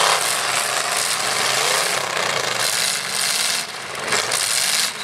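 Demolition-derby trucks' engines revving up and down, several at once, as the trucks push against one another, over a loud steady noise.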